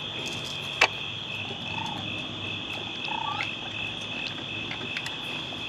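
Steady, shrill chorus of night-calling creatures, with a single sharp click about a second in and a couple of faint short calls near the middle.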